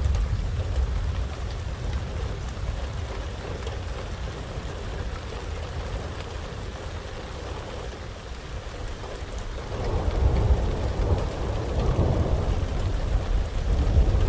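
Heavy rain falling steadily under rolling thunder. A deep rumble fades over the first couple of seconds, then swells again about ten seconds in.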